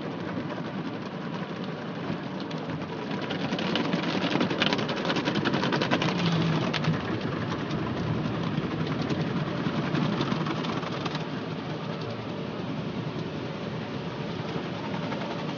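Automatic car wash running over the car, heard from inside it: a steady rush of water spray and machinery with a fine spatter, louder for several seconds in the middle.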